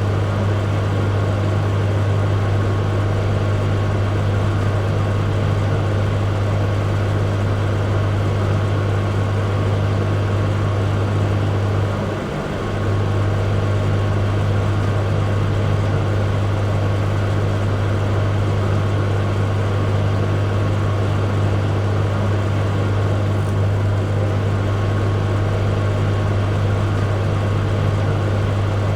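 Microwave oven running: a steady low hum that dips briefly about twelve seconds in.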